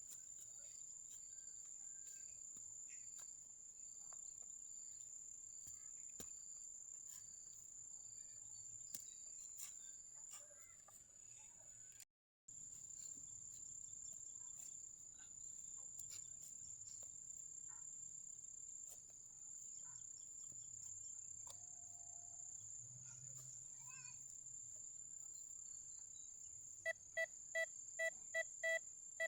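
Crickets trilling steadily at a high pitch, fairly faint. Near the end comes a quick run of about seven loud, evenly spaced beeps, typical of a metal detector signalling a target.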